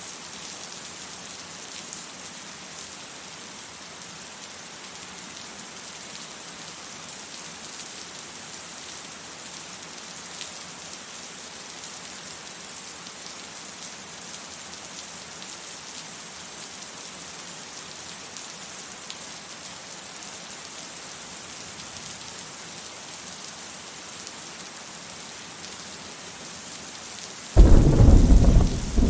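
Steady rain falling, an even hiss, then about a second and a half before the end a sudden loud clap of thunder that rumbles on.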